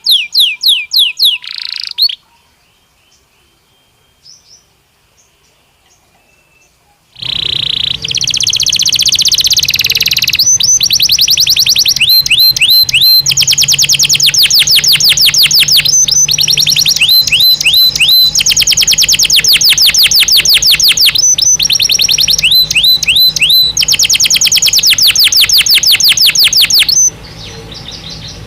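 Belgian canary singing: a short burst of song, a pause of about five seconds, then a long loud song of fast repeated trills and rolling phrases that drops quieter near the end.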